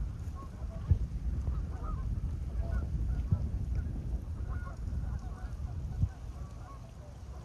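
A flock of tundra swans and Canada geese calling, with many short honks and hoots overlapping throughout, over a steady low rumble. There are brief low thumps about a second in, in the middle, and near the end.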